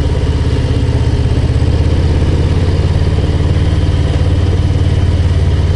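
Harley-Davidson Low Rider ST's Milwaukee-Eight 117 V-twin running steadily while under way, a low, even, pulsing engine note.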